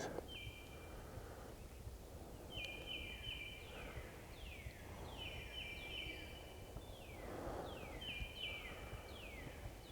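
A songbird singing faintly in about four phrases. Each phrase is a few short, steady notes on two alternating pitches, followed by several quick down-slurred notes.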